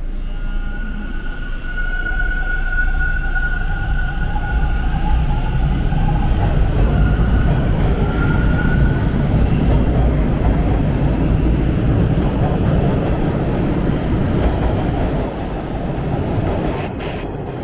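TTC Line 2 subway train, a Bombardier T1, running along the track with a loud steady rumble. The steel wheels squeal in high steady tones through roughly the first nine seconds. The rumble eases about fifteen seconds in.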